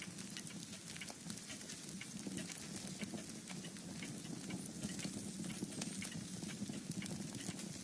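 Wood fire in a fireplace crackling, with irregular small pops and snaps over a low steady rumble.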